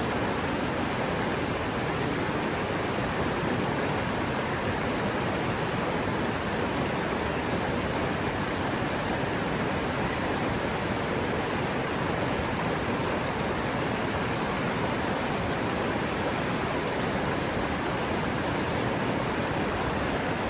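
River water running steadily over rocks: an even, unbroken rush.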